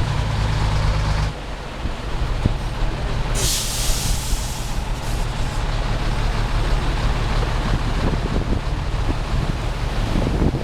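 Heavy vehicle engine running, dipping in level a little over a second in, with a short burst of hiss about three and a half seconds in.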